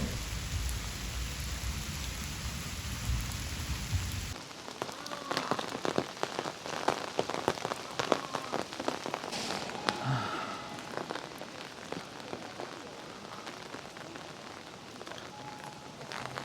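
Heavy rain falling with a dense patter of drops. For the first four seconds a steady low rumble sits under the rain; then it stops and individual close drop hits stand out clearly.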